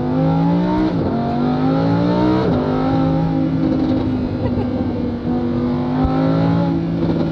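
Lamborghini Huracán EVO's naturally aspirated V10, through its Novitec exhaust, accelerating hard: the pitch climbs and drops sharply at two quick upshifts about one and two and a half seconds in, then pulls on more steadily in the higher gear.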